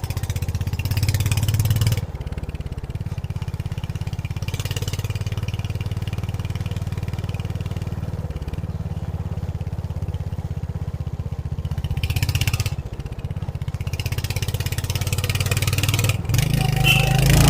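Royal Enfield Hunter 350's single-cylinder engine running under way, a steady low thumping exhaust beat. It swells twice under throttle, about a second in and again later on, each time dropping off sharply, and it grows louder near the end.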